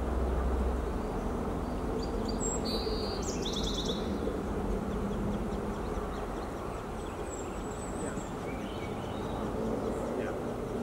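Small birds calling over a steady low rumble of background noise: a quick high trill about two to four seconds in, then a few thin, scattered chirps.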